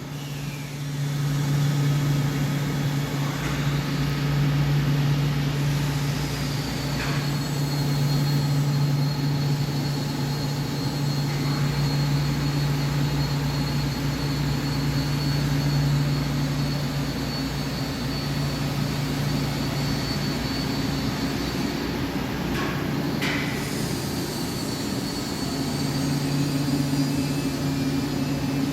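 CNC lathe running: a steady machine hum with a constant high whine above it, and a few brief squeals, the clearest about three-quarters of the way through.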